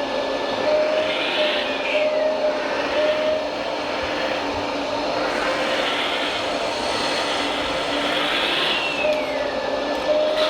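Small electric motors and gearboxes of radio-controlled model machines running steadily with a whirring hum, and a whine that falls in pitch twice, about two seconds in and near the end.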